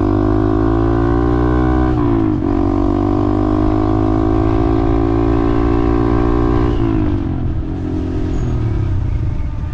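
A vehicle engine pulls through the gears. Its pitch climbs, drops sharply at an upshift a little over two seconds in, climbs again, then falls away about seven seconds in as the throttle eases, over a steady low rumble of road and wind noise.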